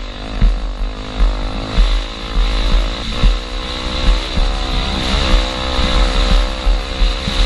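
Honda XR250 Tornado's single-cylinder four-stroke engine running on the move, its pitch rising and falling as the throttle is opened and eased, over a heavy low rumble.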